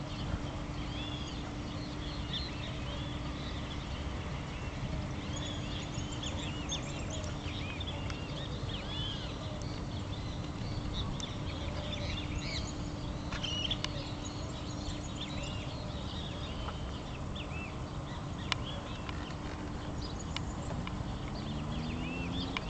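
Many small birds chirping and singing in a dense chorus of short, quick calls, over a steady low hum and rumble; a low tone rises near the end.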